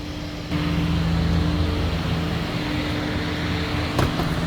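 Semi truck's diesel engine running steadily, heard from inside the cab, with a wide rushing noise over it that comes up abruptly about half a second in. A single click sounds near the end.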